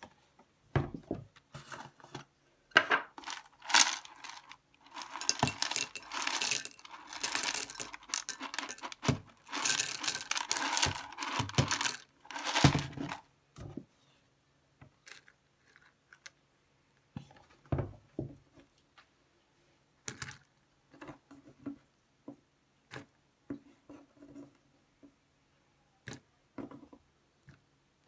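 Chocolate square cereal rattling as it is poured into a ceramic mug of milk, a dense clatter for about ten seconds. After that come only scattered soft taps as sliced strawberries are dropped onto it.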